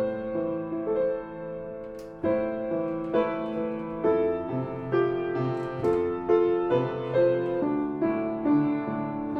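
Background piano music, a melody of single notes played at an even pace.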